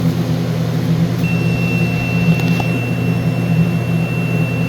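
Steady low machinery hum, with a long, steady high-pitched beep starting about a second in and holding for nearly four seconds, typical of an alarm keypad's piezo sounder during programming.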